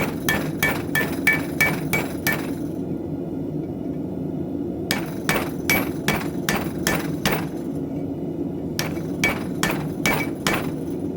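Hammer blows on a knife blank over an anvil while hand-forging, about three or four strikes a second, each with a short metallic ring. The blows come in three runs with short pauses between them, over a steady low hum.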